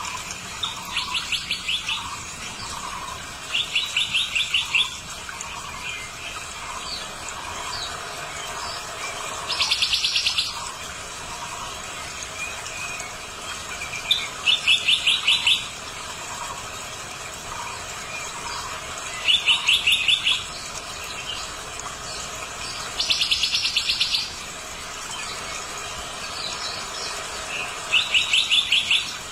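Birds calling in the wild. A loud, rapid pulsed trill comes seven times, each about a second long and a few seconds apart, over softer scattered chirps.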